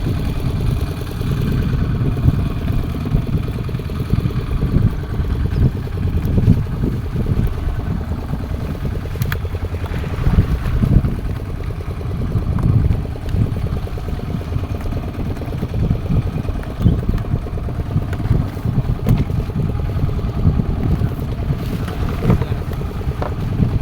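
A fishing boat's engine running steadily, with an uneven low rumble over it.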